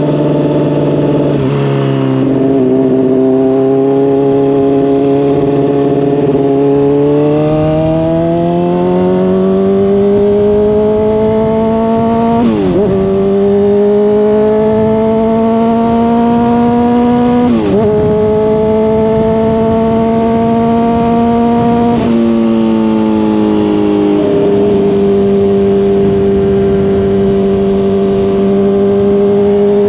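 Honda CBR600RR inline-four through a slip-on exhaust under way: the revs climb slowly, dip briefly twice at quick upshifts, then drop at a further shift to a steady cruising note.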